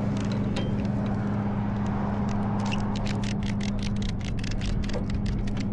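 Tow truck engine running steadily. From about three seconds in, a quick run of ratcheting clicks as a ratchet strap is cranked tight to tie down a motorcycle.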